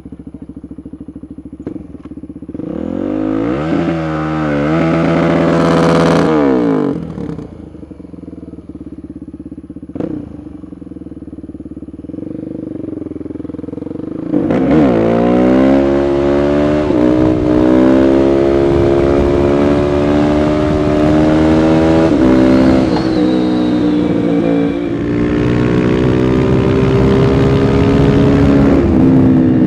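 Suzuki DR-Z400SM supermoto's single-cylinder four-stroke engine revving. A few seconds in it revs up and drops back, then runs lower. About halfway through the revs climb and are held high and fairly steady to the end, as for a burnout.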